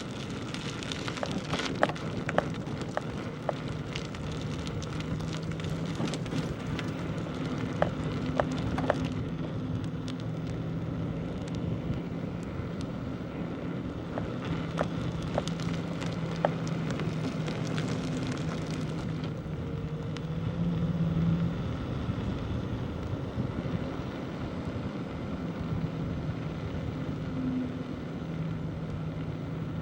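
Bicycle tyres rolling over a rough village road, with frequent small clicks and crackles, most of them in the first two-thirds. A steady low hum runs underneath.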